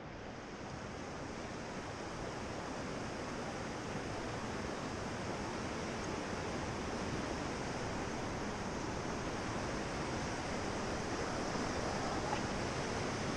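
Steady rushing of river water, growing gradually louder.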